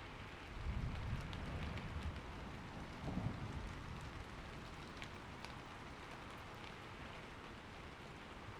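Steady rain falling, with a roll of thunder rumbling in about half a second in, swelling twice and fading away by about the middle.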